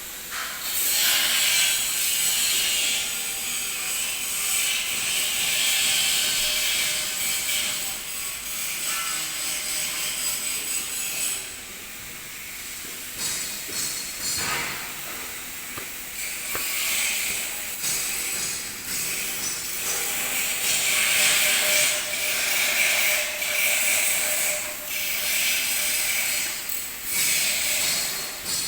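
Electric arc welding: the arc crackling and hissing steadily, with a quieter stretch about twelve seconds in.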